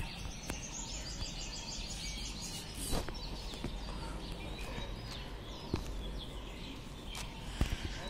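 Small birds chirping outdoors: a quick run of high chirps in the first two seconds, then scattered single chirps over a steady background hiss.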